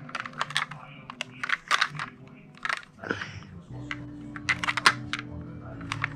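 Clicks, taps and crinkles of a toy truck's box and packaging being handled and opened. A low steady hum comes in about two-thirds of the way through.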